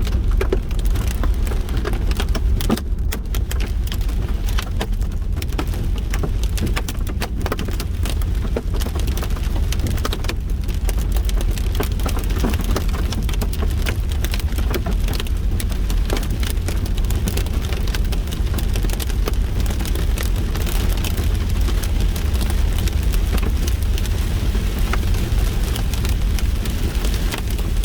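Rain and hail pelting a vehicle: a dense, steady patter of sharp hits over a low rumble.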